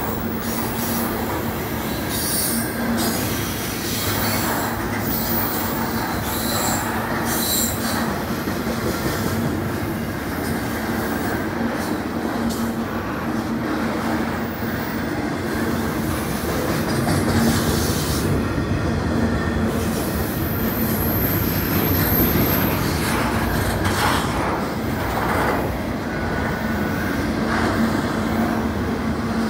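CN freight train's double-stack intermodal container cars rolling past, a steady rumble of steel wheels on the rails with occasional brief high-pitched wheel squeals.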